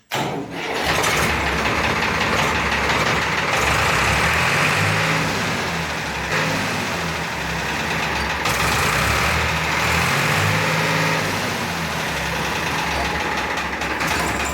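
New Holland 4710 tractor's diesel engine running steadily, its pitch shifting a little now and then.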